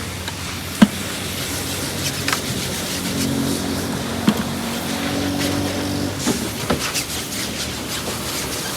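A motor running steadily over a constant noisy background, with a few sharp knocks.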